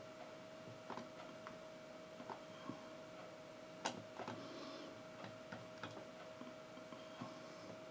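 Faint, irregular light clicks and taps, one sharper click about four seconds in, over a steady low electrical hum.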